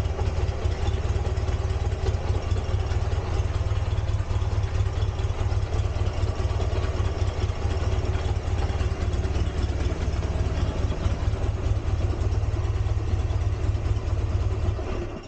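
An engine running steadily with a deep, even hum and no revving, cutting off abruptly at the very end.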